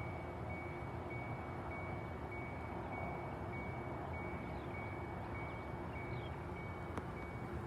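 A high electronic beep repeating about twice a second over a steady low rumble, with a single sharp click about seven seconds in.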